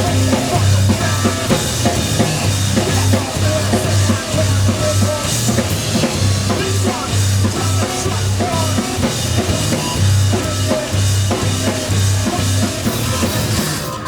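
Live rock band playing loud and hard: pounding drum kit with crashing cymbals over a pulsing bass line, the full band cutting off abruptly right at the end.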